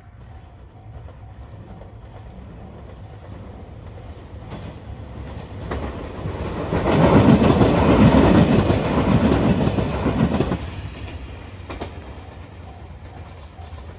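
A train passing over a level crossing: its rumble and wheel clatter build up, stay loud for a few seconds in the middle, then fade. The crossing's warning bell rings in a steady repeating pattern, heard clearly before and after the train drowns it out.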